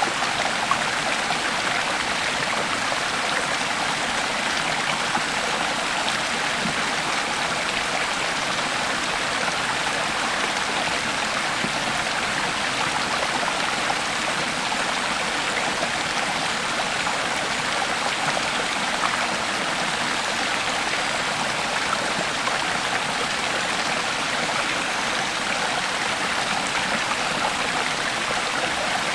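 Creek water flowing steadily over stones, a constant rushing and babbling with small splashes here and there.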